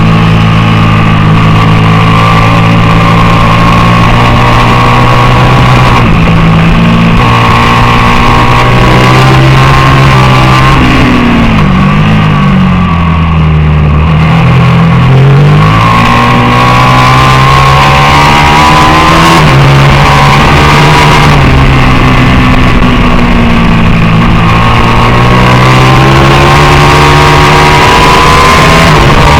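Racing motorcycle engine running hard at high revs, loud enough to saturate the microphone. About twelve seconds in, the revs drop away and then climb back up, and later they rise again steadily.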